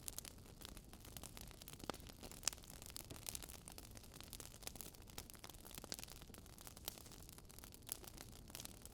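Wood fire crackling softly: irregular sharp pops and snaps from burning logs over a low hiss, with a louder snap about two and a half seconds in.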